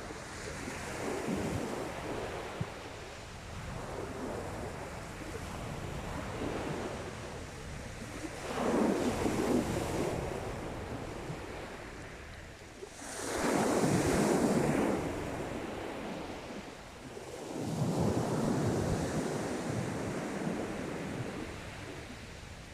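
Sea waves breaking and washing up the beach, four surges in turn, each swelling and then fading; the loudest comes about two-thirds of the way through, with a strong hiss.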